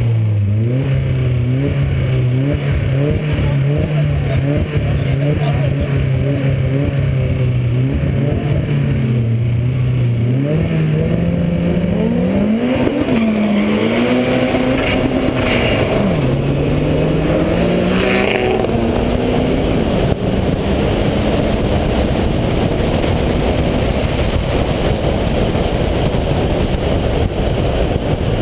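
Street drag car's engine held at steady revs on the line, then launching about ten seconds in: the pitch climbs and drops back with each gear change, roughly every three seconds. After about twenty seconds it settles into a steady rush of engine and wind at speed.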